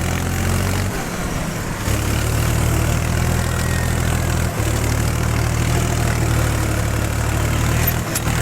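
Powertrac 434 tractor's diesel engine running steadily, with a brief dip in its low drone about a second in.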